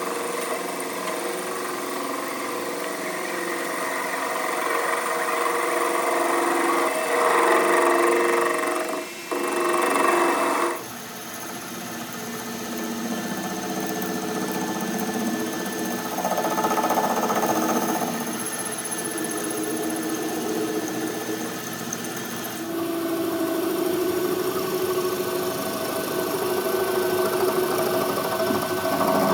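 Workshop machinery and power tools running steadily with a mechanical hum, the sound changing abruptly about a third of the way in and again about three-quarters through.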